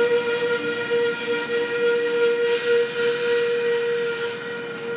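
A train on the move, with a steady whistling tone of several pitches held over a rushing hiss.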